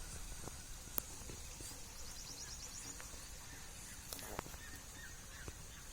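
Farm birds calling faintly: a series of short, repeated calls returns near the end, with a quick rapid chirping trill about two seconds in and a few sharp clicks.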